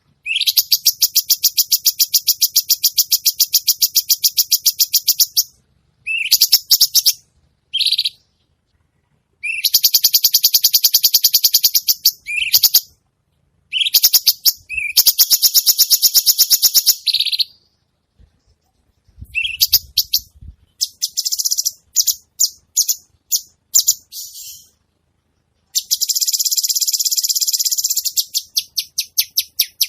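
Songbird song: loud, high-pitched, very rapid repeated notes in phrases of a few seconds with short pauses between them. In the middle of the stretch these give way to a string of separate sharp chirps before another fast run.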